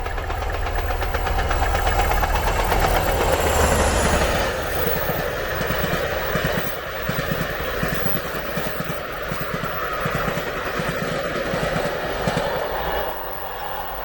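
A train passing: a heavy low engine rumble for the first four seconds or so, then a steady rhythmic clatter of wheels over the rails that eases off near the end.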